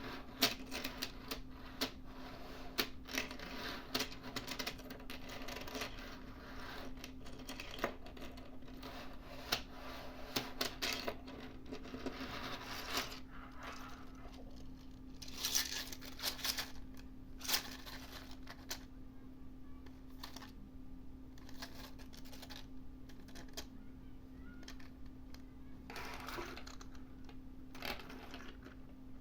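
Hard 3D-printed plastic pieces clicking and clattering as a transformable toy is handled and reshaped. The clicks are irregular and dense for the first half, then sparser, over a steady low hum.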